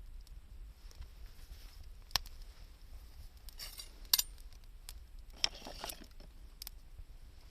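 Wood campfire crackling, with a few scattered sharp pops; the loudest comes about four seconds in.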